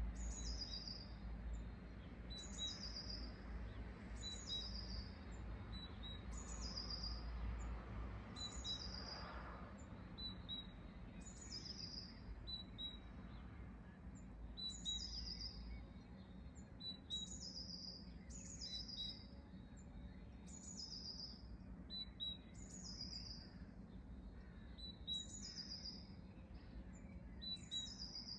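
A songbird repeating the same short, high chirp that falls in pitch, about once every second and a half. A low rumble runs underneath and eases off about eight seconds in.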